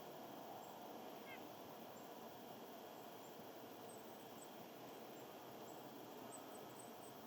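Faint outdoor ambience with a steady hiss, over which small birds give tiny high chirps now and then; one short falling chirp comes about a second in.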